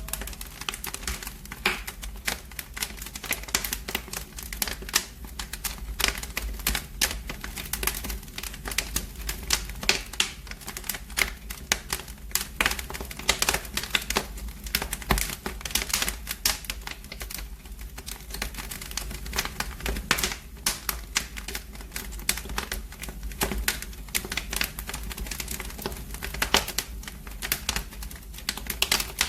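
Wood fire in a fireplace crackling steadily, with dense, irregular pops and snaps over a low rumble.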